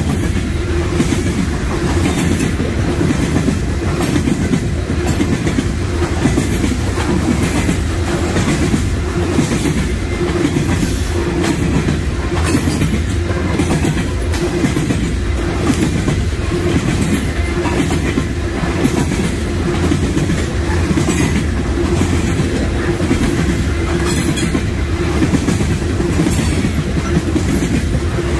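Freight train cars rolling past, a steady loud rumble with frequent clickety-clack of the wheels over the rail joints.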